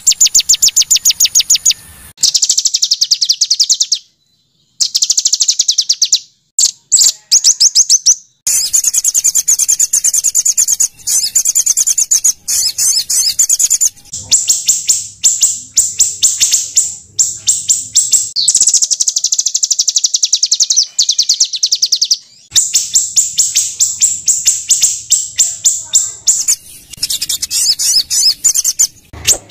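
Recorded small songbirds giving harsh, rapid chattering trills: long strings of high notes, many a second, in loud bursts. The bursts are separated by a few brief silences and abrupt cuts between sections, played as masteran training audio for a white-rumped shama.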